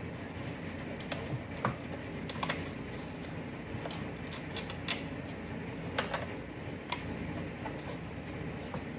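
Scattered light metallic clicks and clinks, about a dozen at irregular intervals, as a magnetic pickup tool is worked around a dropped bolt, over a steady low hum.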